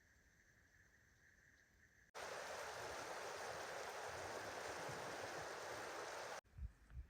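Faint outdoor quiet that cuts suddenly, about two seconds in, to the loud, even rush of a mountain stream. The water sound stops just as abruptly about four seconds later, leaving faint quiet again.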